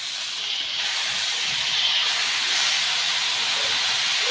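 Freshly chopped spinach hissing and sizzling as it hits hot oil in a steel kadhai. The steady high hiss grows a little louder over the first second, then holds.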